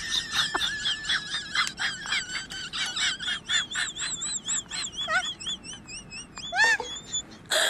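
Birdsong: many rapid high-pitched chirps and warbling trills.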